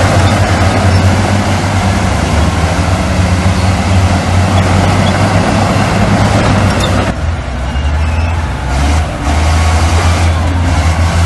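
Heavy diesel earthmoving machinery running loudly, a deep steady engine hum under a rough clattering wash. The rough wash drops away suddenly about seven seconds in, leaving mostly the engine hum, then partly returns.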